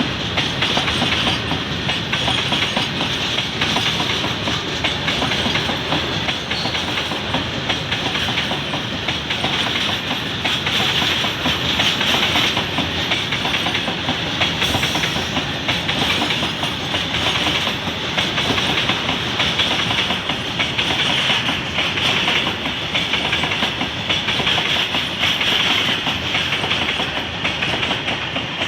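Train running along the track, with a steady clatter of wheels on the rails and a dense, even rush of running noise.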